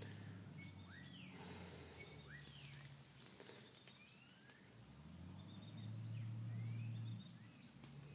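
Birds calling: short whistled notes that sweep up or down in pitch, repeated every second or so, over a faint low steady hum.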